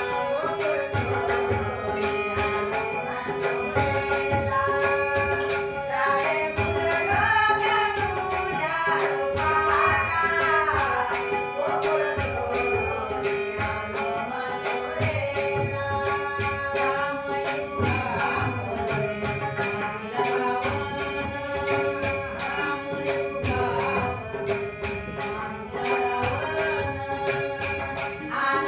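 Marathi devotional bhajan (gavlan) music: a sung melody with harmonium, including a steady drone, and tabla keeping rhythm under an even high jingling beat.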